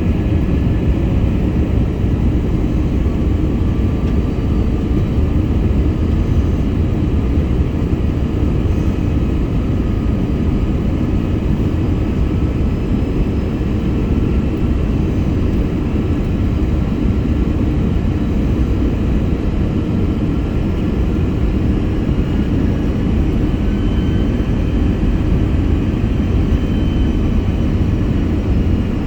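Airbus A321 cabin noise from a forward seat in flight: a loud, steady low rumble of airflow and engines, with faint engine whine tones that drift slowly in pitch.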